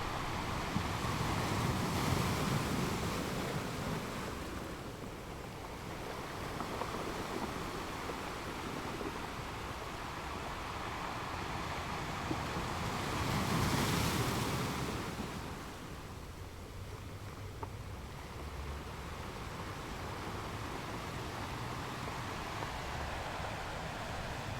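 Sea waves breaking, a steady rush of surf that swells about two seconds in and again, louder, around the middle before ebbing.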